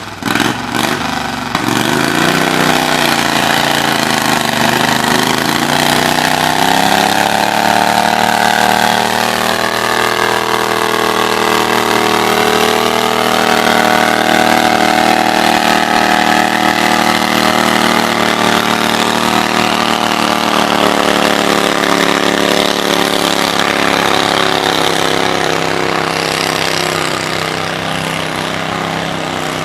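Tractor engine revving up over the first several seconds, then held at high, steady revs.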